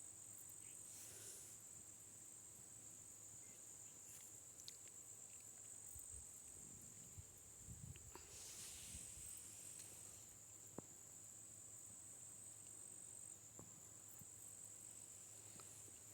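Faint, steady high-pitched chirring of crickets, one unbroken insect chorus, with a few soft low thumps near the middle.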